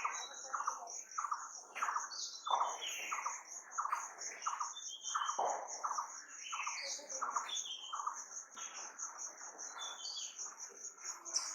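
Several wild birds calling and chirping together, one repeating a short note a few times a second, over a continuous high, fast-pulsing trill.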